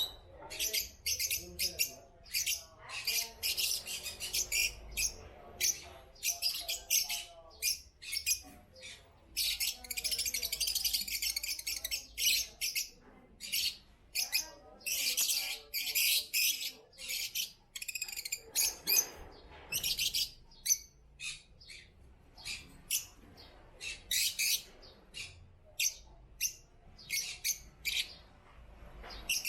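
A group of African lovebirds chirping: many short, shrill, high-pitched chirps in dense overlapping runs with brief gaps between them.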